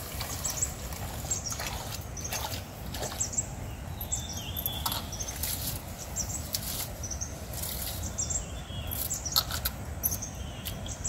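Small birds chirping in many short, high calls, some falling in pitch, over a steady low rumble, with scattered sharp clicks or knocks.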